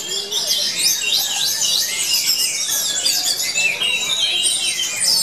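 Songbirds singing in a dense, unbroken stream of quick overlapping chirps, trills and whistles.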